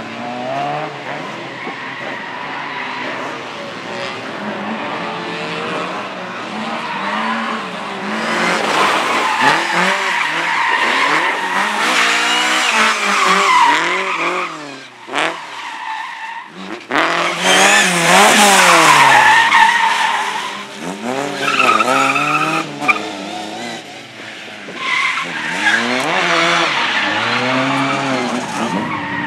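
Car engine revving up and falling back again and again as it is driven hard through a slalom course, with tyres squealing in the turns.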